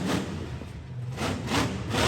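Monster truck engine revving up and down in short surges, the strongest about one and a half seconds in.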